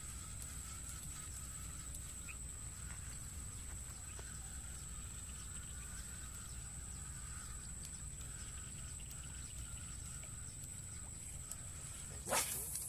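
Outdoor field ambience: a steady high-pitched whine and a wavering mid-pitched drone over a low rumble, with a sudden loud noisy burst near the end.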